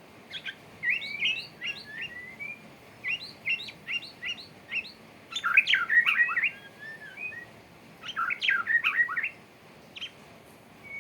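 Male white-rumped shama singing its courtship song: about four bursts of rapid, varied whistles, chirps and slurred notes with short pauses between them, and a single note near the end.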